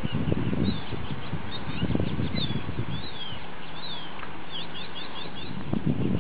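Small birds chirping in quick runs of short, high notes, some sliding down and some up, several overlapping, over a steady low rushing noise.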